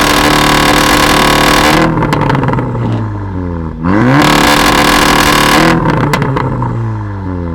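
Tuned car engine revved and held at high revs, then released. The pitch falls with exhaust crackles and pops, a quick blip brings it back up to a second high hold, and it falls away again crackling near the end.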